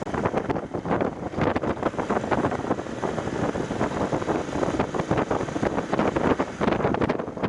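Heavy wind buffeting over an action camera's microphone on a moving motorcycle, a dense, fluttering rush.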